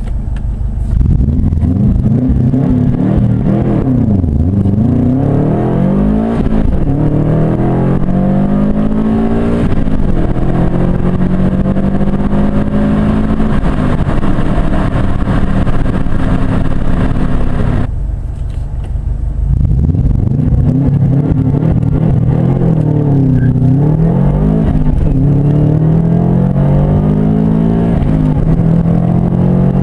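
Turbocharged 2.0-litre flat-four engine of a Subaru Forester Turbo S under hard acceleration, its pitch climbing through the gears and dropping at each upshift, then holding steady. About eighteen seconds in the engine falls back briefly, then pulls hard again through more gearchanges.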